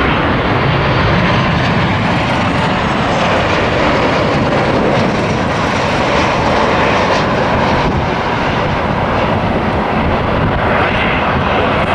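A Boeing 737 jetliner passing low on its landing approach, its jet engines a loud, steady noise.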